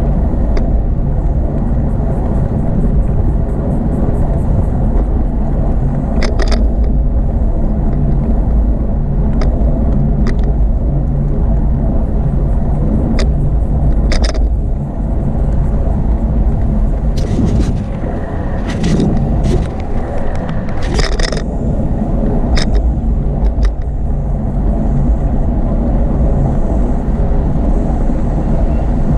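Steady low rumble of wind buffeting the microphone of a moving bicycle, mixed with road traffic noise. Several short clicks and rattles come through, most of them about two-thirds of the way through.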